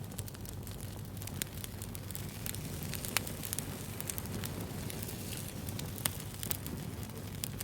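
Wood fire crackling: a steady low rumble of burning with many scattered sharp pops and snaps, a louder pop about three seconds in and another about six seconds in.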